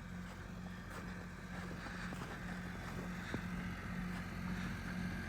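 A steady low mechanical hum, like a running engine, with a faint hiss over it.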